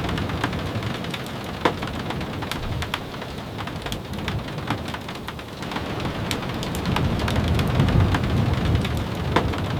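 Steady rain falling, with scattered sharp ticks of drops. A low rumble builds in the second half.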